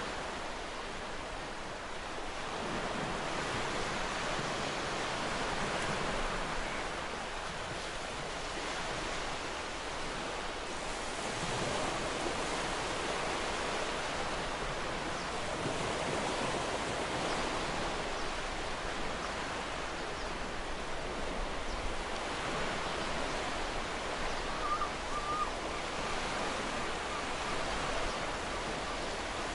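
Sea surf washing on a beach: a steady rushing wash that swells and eases every few seconds, with a brief faint chirp near the end.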